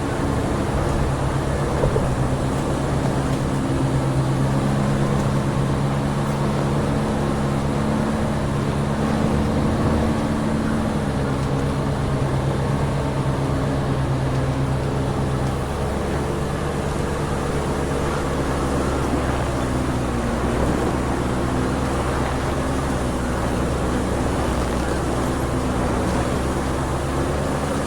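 Heavy timber truck's diesel engine running steadily while driving, with road noise; its engine note shifts a couple of times.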